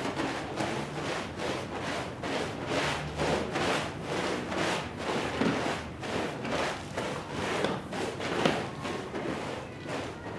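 Brush scrubbing a rug in repeated back-and-forth strokes.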